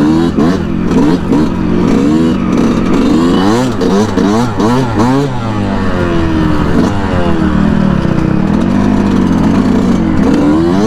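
2019 Yamaha YZ125 single-cylinder two-stroke dirt bike engine revving hard while riding, its pitch climbing and dropping over and over as the throttle is worked and gears change, with quick rapid rises and falls about four to five seconds in.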